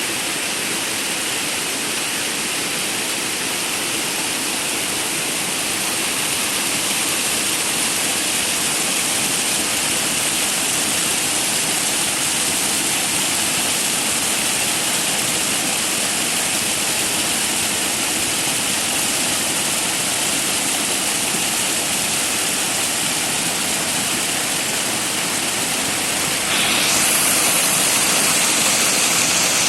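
Shumka waterfall, a mountain waterfall, rushing steadily. About a second or so before the end it abruptly turns brighter and slightly louder, as if the sound suddenly comes closer.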